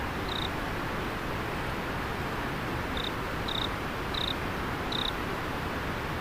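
River water flowing with a steady rushing sound, while an insect chirps in short, high notes, once near the start and four times in the second half.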